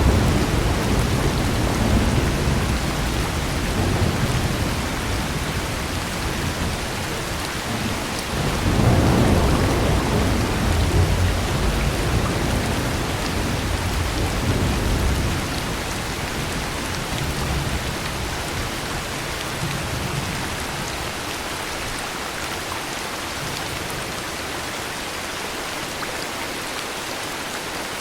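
Steady heavy rain with thunder: a long low rumble at the start and a stronger, longer roll from about eight seconds in that dies away after about sixteen seconds, leaving the rain alone.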